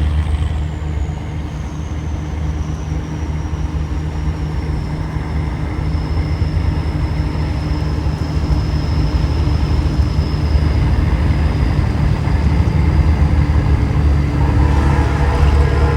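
Big rig truck's engine running steadily under way, with a thin high whine that slowly falls in pitch.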